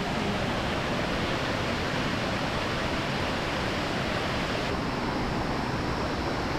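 Steady rush of a nearby waterfall: a dense, even noise that thins slightly at the top near the end.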